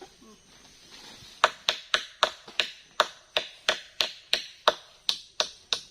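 Rapid hammering, about four sharp blows a second with a slight ring, starting about a second and a half in. It is typical of a hammer driving nails into wood.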